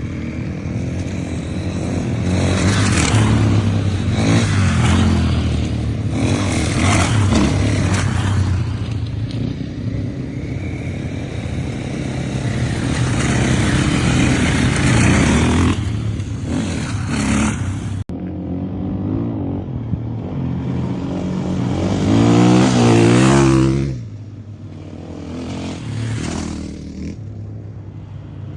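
Motocross bike engines running and revving as they are ridden, the pitch rising and falling with the throttle. The sound changes abruptly about two-thirds through, and a bike revs up loudly twice near the end.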